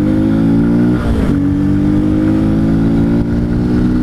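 Honda Bros 160's single-cylinder engine pulling under way, loud through its intake with the air-box snorkel removed. Its pitch climbs slowly, dips once about a second in as with a gear change, then holds steady.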